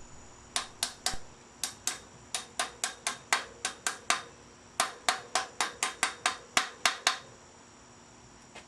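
Hammer tapping the crank bearing races into a bicycle's bottom bracket shell: a run of sharp taps, about three a second, that stops about seven seconds in.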